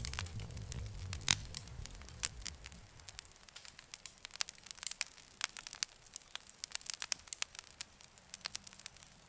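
Campfire wood crackling and popping in quick, irregular snaps. A low rumble under the crackle fades away about three seconds in, leaving sparser sharp pops.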